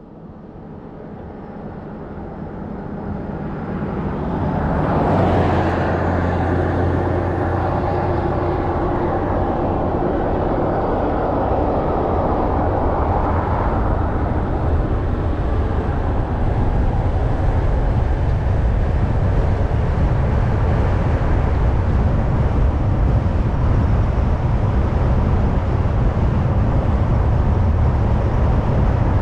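Steady road and tyre noise with a low engine hum from a car driving at highway speed. It fades in over the first few seconds, and there is a louder stretch of noise from about five to fourteen seconds in.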